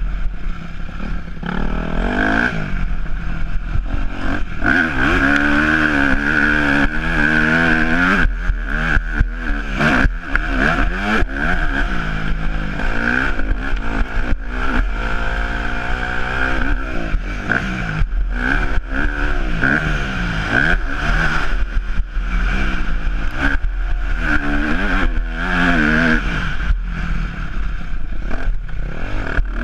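Yamaha YZ250F's four-stroke single-cylinder engine being ridden hard, revving up and dropping back again and again, with frequent clattering knocks from the bike.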